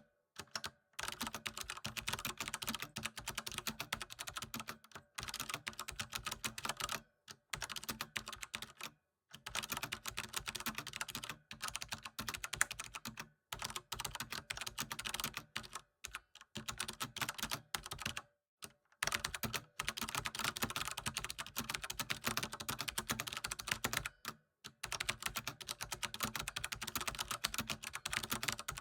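Typing on a computer keyboard: rapid key clicks in bursts of several seconds, broken by short pauses.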